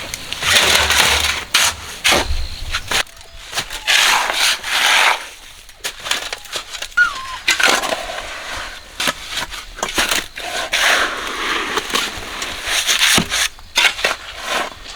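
Irregular gritty scraping and crunching of gravel or wet concrete mix being worked with tools, in uneven bursts.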